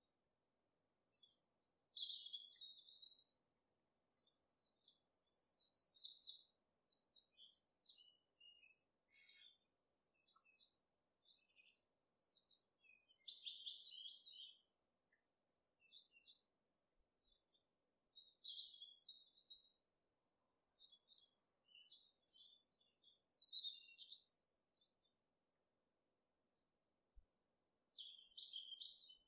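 Birds chirping and singing in short, high-pitched phrases of about a second each, with brief gaps between them, over a faint background hiss.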